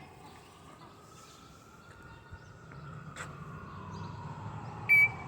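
An African grey parrot gives one short, loud, whistle-like call near the end, over a faint background.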